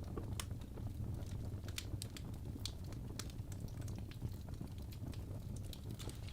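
Birch logs burning in a fireplace: irregular sharp crackles and pops, some louder than others, over a steady low rumble.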